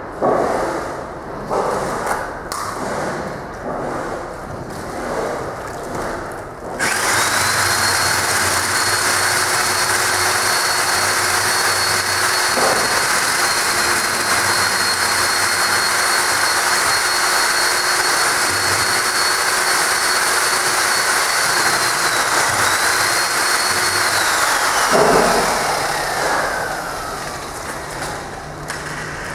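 Irregular knocks and clatter, then a machine with an electric motor switched on about seven seconds in: a loud rushing noise with a steady high whine for about eighteen seconds. It is then switched off and the whine falls in pitch as the motor winds down.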